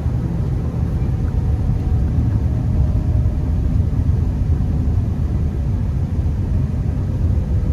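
Steady low rumble of tyres and engine heard inside a Honda Accord's cabin while it drives.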